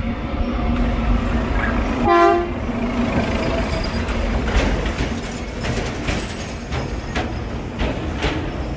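Huwei Sugar Factory's 762 mm narrow-gauge sugarcane train running with a steady rumble. Its horn gives one short blast about two seconds in. From then on comes the clatter of wheels over the rail joints.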